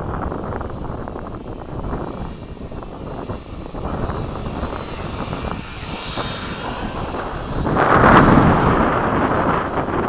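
Electric radio-controlled model airplane flying, its thin motor whine bending upward about six seconds in, with a louder rush of noise as it passes about eight seconds in, over wind buffeting the microphone.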